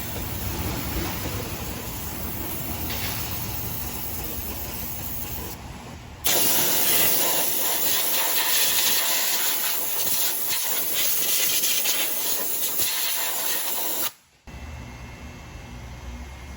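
A loud, steady hiss that starts abruptly about six seconds in and cuts off suddenly about eight seconds later, over a lower background noise.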